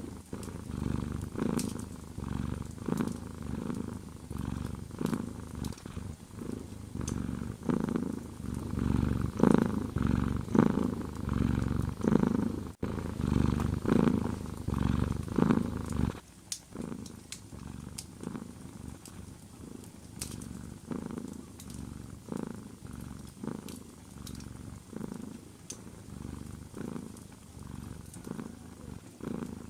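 Cat purring close up, in steady pulses that swell and fade with each breath, loud at first and then noticeably quieter about halfway through. Sharp crackles of a wood fire sound over it.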